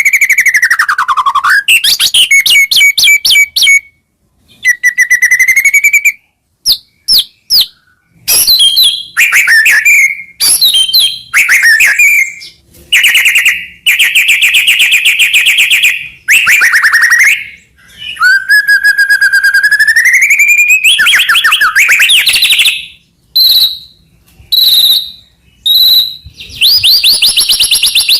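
White-rumped shama (murai batu) singing loudly in varied phrases: clear gliding whistles, fast rapid-fire trills and a harsh buzzy stretch, with short breaks between phrases.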